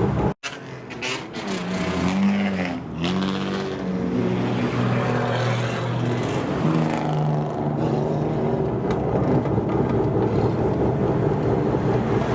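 Car engines of kaido-racer-style older cars revving, the pitch rising and falling a few times, then running steadily. The sound cuts out briefly about half a second in.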